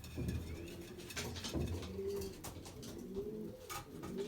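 Domestic racing pigeons cooing: low, rolling coos rising and falling in pitch and overlapping one another, with a few light clicks.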